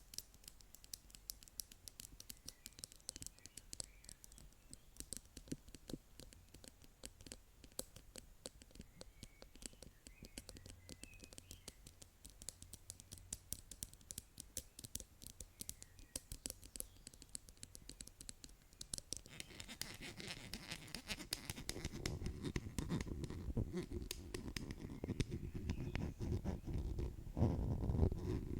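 ASMR tapping and scratching by hand: fast, light clicky taps for most of the first two-thirds, then a denser scratching that grows louder toward the end.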